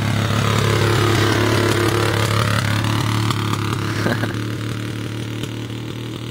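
Small off-road vehicle engine running steadily, loudest about a second in and easing off slightly after.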